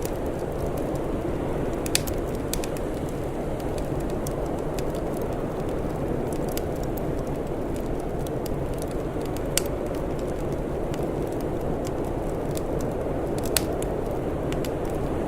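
Wood fire crackling over a steady low rush, with scattered sharp pops; the loudest come about two seconds in, near the middle and near the end.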